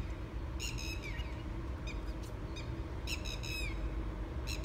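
Bird chirping: repeated short high-pitched phrases of a few quick notes, each ending in a falling slur, about every second and a half, over a steady low background rumble.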